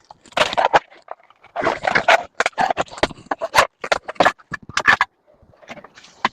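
Irregular knocks, clatters and scrapes of scrap being handled and pulled apart by hand, as a door's metal frame and parts are stripped for scrap. The knocks come thick and fast for about five seconds, then thin out near the end.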